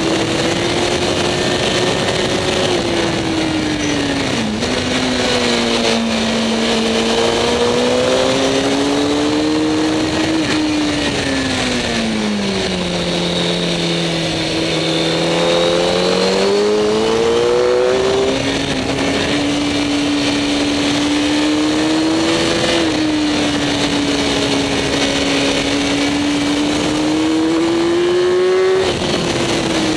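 Sport motorcycle engine heard onboard at speed on a race track, with wind rushing over the microphone. The engine note dips to its lowest in the middle, then climbs again. It jumps in pitch at gear changes a little after the middle and again just before the end.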